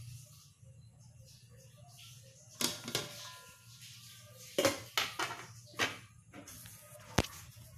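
Kitchen cookware and utensils clattering: about seven sharp knocks and clinks of metal on pots, the first pair ringing briefly.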